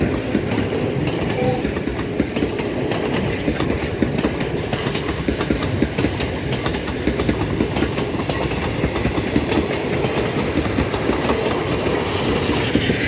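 Old 42-series passenger coaches rolling past at close range, their steel wheels clattering over the rail joints in a steady run of clicks over a rumble. Near the end the steam locomotive at the rear of the train comes by.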